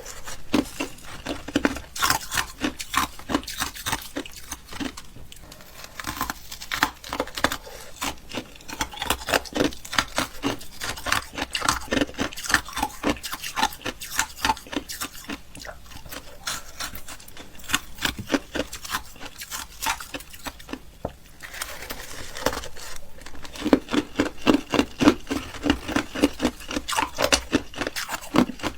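Close-miked crunching and chewing of ice: rapid crackling bites, several a second, with a brief pause about two-thirds of the way through.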